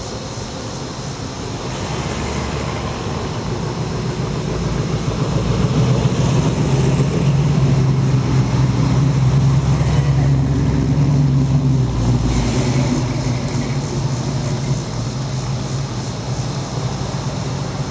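A car's engine rumbling as it drives past close by. It grows louder, is loudest through the middle, and eases off after about twelve seconds.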